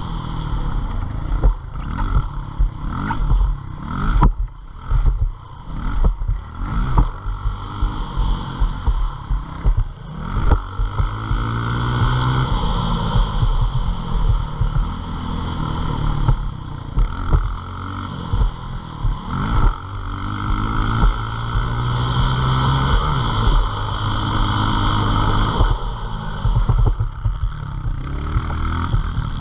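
Pit bike engine being ridden hard, its revs climbing and dropping over and over as the throttle is rolled on and off, then held more steadily for stretches in the second half.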